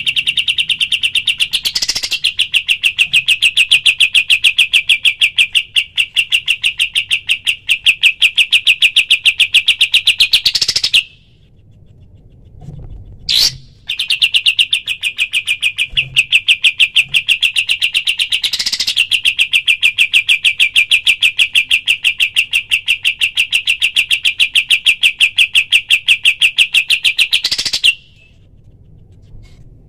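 Kapas tembak songbird singing its rapid-fire 'tembakan' song: long, even trills of quick repeated high notes, each run opening with a rising note. One trill stops about eleven seconds in, a single note sounds in the pause, and a second long trill follows until near the end.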